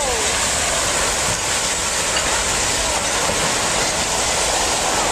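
Tsunami surge rushing through a harbour: a loud, steady rush of fast-moving water.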